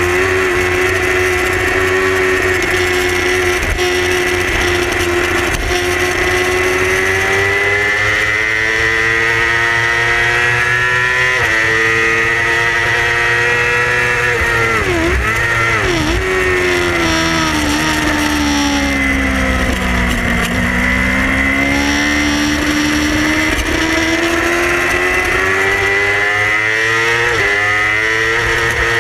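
Yamaha R6 inline-four racing engine at high revs. The pitch climbs steadily with quick short dips at gear changes. About two-thirds of the way through it falls slowly as the bike slows, then climbs again under acceleration.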